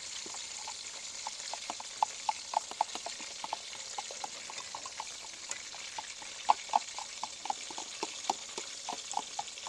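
Chicken pakoras frying in hot oil in a karahi: a steady sizzle with many small irregular pops and ticks, which come thicker in the second half.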